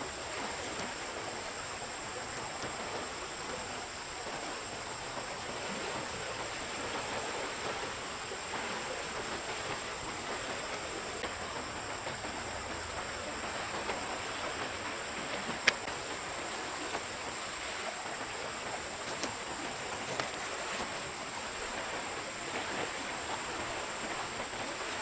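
Forest stream running steadily, with a constant high-pitched whine over it and a few sharp clicks, the loudest about two-thirds of the way through.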